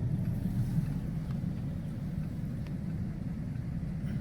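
Steady low rumble of road and engine noise heard inside a moving vehicle's cabin.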